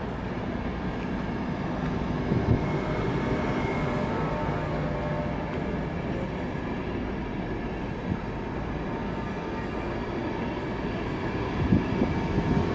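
LNER Azuma (Hitachi) passenger train moving along the platform: a steady rumble of wheels and running gear with faint steady tones over it. Louder knocks come about two and a half seconds in and again near the end.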